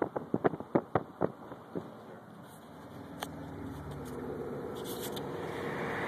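A quick, irregular run of sharp clicks and knocks in the first two seconds. Then the steady hum of a car's engine and road noise, growing gradually louder.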